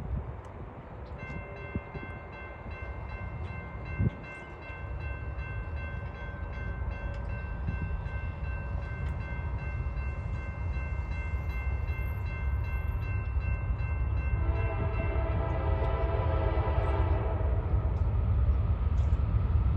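CSX freight locomotive's multi-note air horn held in one long blast of about fourteen seconds. Its pitch drops about fifteen seconds in as the locomotive draws past, while the low rumble of the approaching train grows steadily louder.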